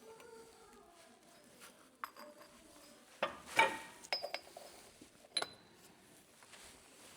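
Metal coilover top-mount parts and hand tools clinking and knocking together, with a cluster of sharp, briefly ringing metallic strikes between about two and five and a half seconds in, as the top-mount bearing is taken out.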